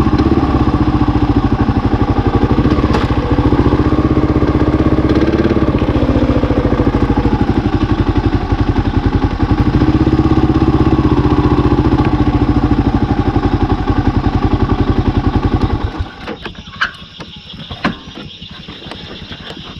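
Single-cylinder 650 dual-sport motorcycle engine running under way with a steady firing beat, its pitch wavering slightly; about sixteen seconds in the engine sound drops away abruptly, leaving a few clicks.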